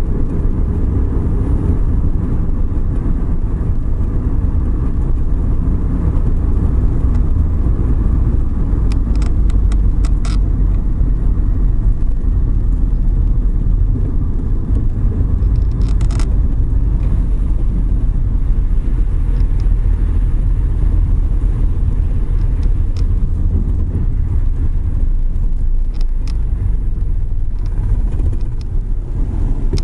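Suzuki Every Wagon being driven on a wet road: a steady low rumble of engine and tyre noise, with a few short sharp clicks here and there.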